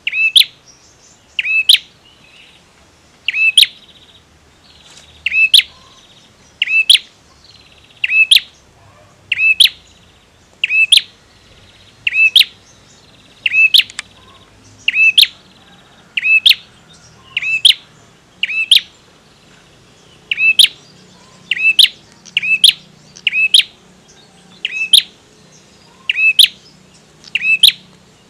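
A male prenjak (prinia) calling over and over: short, sharp, high chirps, one roughly every second and a half, sometimes two in quick succession.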